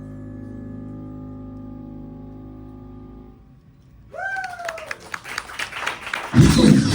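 A held chord at the end of a song fades away, then a voice from the crowd calls out in a short rising-and-falling shout while the audience claps. Near the end, loud band music kicks in as the next song begins.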